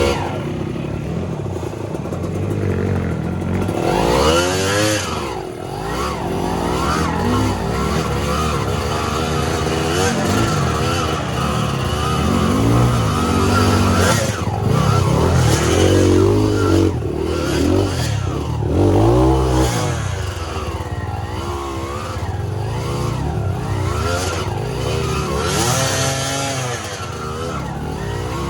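Dirt bike engine revving up and easing off again and again as it is ridden, its pitch climbing and dropping every second or two.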